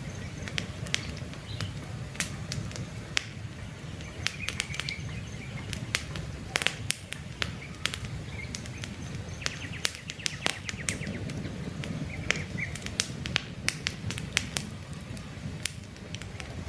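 Campfire crackling: irregular sharp snaps and pops over a low steady rumble of the flames. A few faint bird chirps come through now and then.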